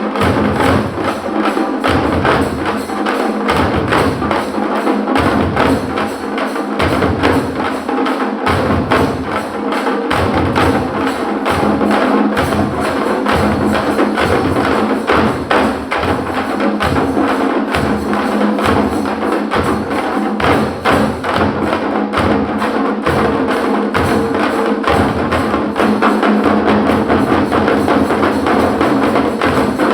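Parai frame drums beaten with sticks in a fast, dense, continuous rhythm, with a heavy low beat recurring about once a second under the quicker sharp strokes.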